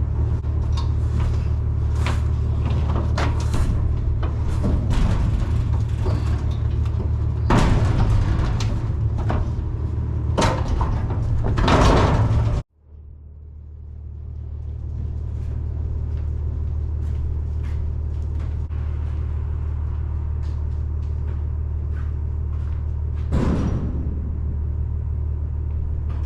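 Box truck cab noise while driving: a steady low engine and road drone with frequent knocks and rattles from the truck body. The sound cuts out abruptly about halfway, then fades back in as the same steady drone, with fewer knocks.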